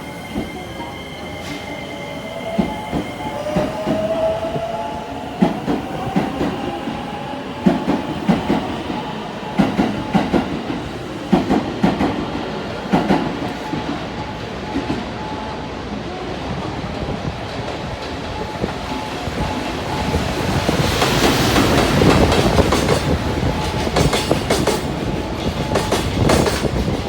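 Freight train running past: the wagons' wheels clack in groups over the rail joints, with a faint rising squeal in the first few seconds and a louder rush of running noise near the end.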